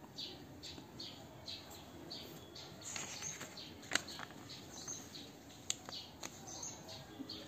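Faint, rapidly repeated chirps of small birds in the background, with a few sharp clicks and rustles of paper as the pages of a printed booklet are turned, about four seconds in and again near six seconds.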